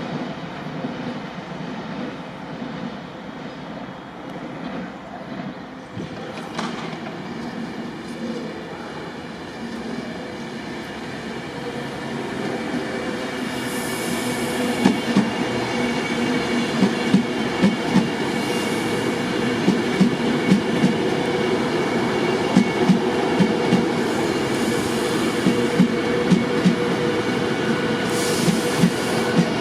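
A train running through the station, its rumble building, then its wheels clacking over rail joints in regular pairs of knocks as the bogies pass.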